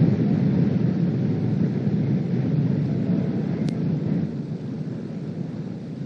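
Strong wind buffeting the outdoor camera's microphone: a low, gusting rumble that eases off about four seconds in.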